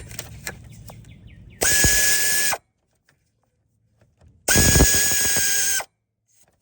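Cordless power tool run in two short bursts, about one second and then about one and a half seconds long, each with a steady high whine, during work under the hood. Faint clinks of handled parts and tools come before the first burst.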